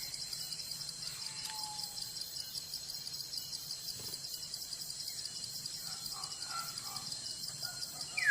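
Forest insects, crickets or cicadas, trilling in a steady high-pitched, rapid pulsing chorus, with a few faint bird calls, one a short falling whistle about a second and a half in.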